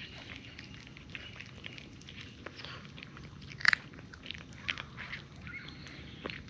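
Cats crunching dry kibble: irregular crisp crunches of chewing, one sharper and louder about three and a half seconds in.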